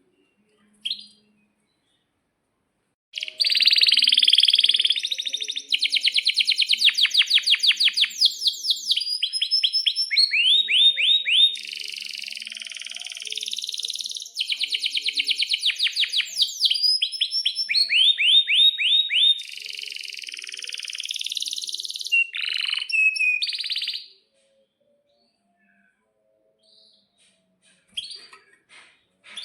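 Male domestic canary singing a long, loud song of rapid rolling trills and runs of quickly repeated sweeping notes, starting a few seconds in and stopping about twenty seconds later, after a single short note at the start; a few faint chirps follow near the end.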